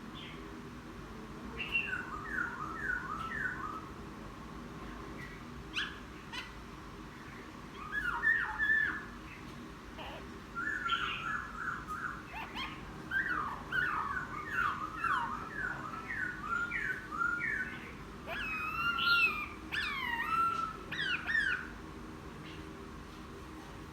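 Newly wild-caught caged laughingthrush singing in bursts of quick, repeated down-slurred notes, phrase after phrase with short pauses, over a low steady hum.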